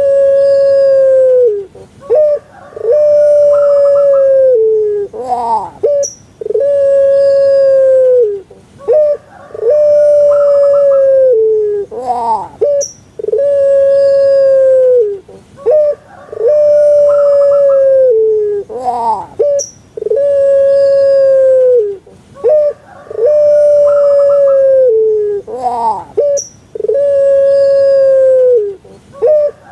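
Puter pelung (a ringneck / Barbary dove bred in Java for its long call) cooing over and over, about every three and a half seconds: a short rising note, then a long held coo lasting about two seconds that drops at its end.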